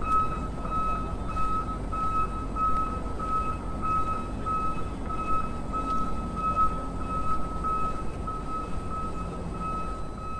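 Electronic reversing-alarm beeping: a single high tone pulsing steadily about three times a second.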